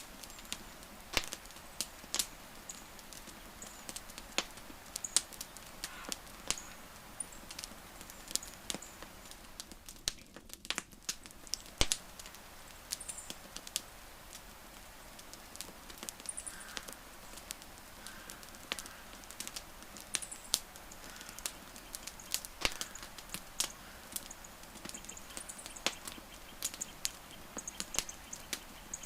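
Wood fire crackling: irregular sharp pops and snaps, sometimes several close together, over a steady low hiss.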